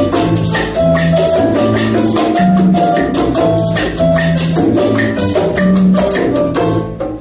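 Live salsa band playing: a repeating montuno pattern on keys over a 2-3 clave, with bass and Latin hand percussion keeping a steady rhythm, stopping just before the end.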